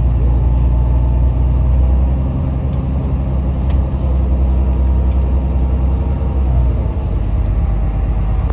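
Diesel engine of a Yutong ZK6128HG city bus running steadily under way, heard from inside the cabin. The engine note shifts and drops about seven seconds in.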